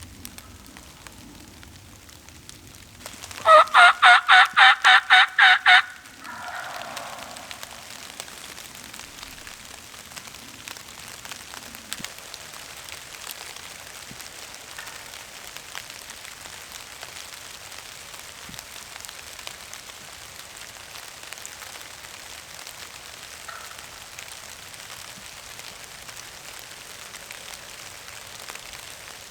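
Hand-worked turkey call sounding a quick run of about nine loud yelps. A turkey gobbles faintly in answer right after. Steady rain patters throughout.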